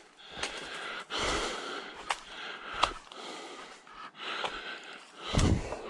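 A hiker breathing hard while walking, with a few sharp snaps and clicks from footsteps on the forest trail. A heavier breath comes near the end.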